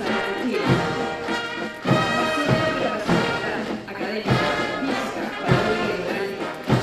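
Military band playing a march, brass carrying the tune over a steady bass drum beat.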